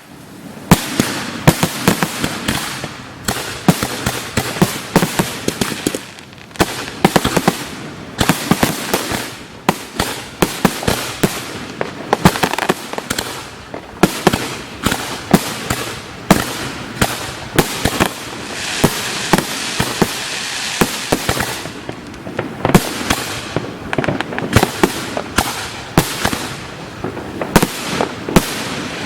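Fireworks display heard close to the firing line: a dense, irregular barrage of shells launching and bursting, many sharp bangs a second, with a thicker stretch of hiss and crackle a little past the middle.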